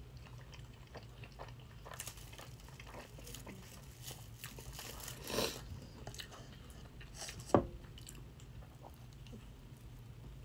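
Close-up chewing of a mouthful of burrito: soft wet mouth sounds and small clicks, with a louder noisy patch about five seconds in and a sharp click a little before eight seconds in.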